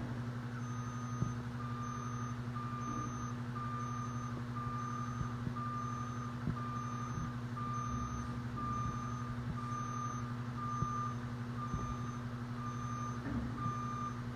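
Garbage truck backing up: its reversing alarm beeps steadily at one pitch, about once a second, over the steady hum of its diesel engine.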